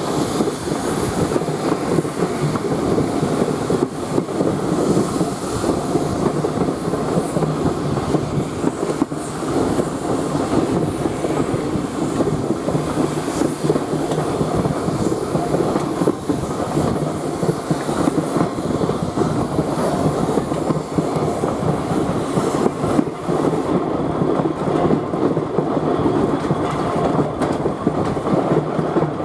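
Railway carriage running steadily along the track: a continuous rumble of wheels on rail with irregular clickety-clack.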